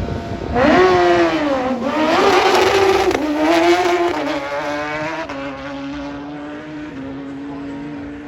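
Drag racing motorcycle engine at full throttle on a run, starting loud about half a second in, its pitch sweeping down and up through shifts until about four seconds in, then dropping back to a quieter, steady engine note.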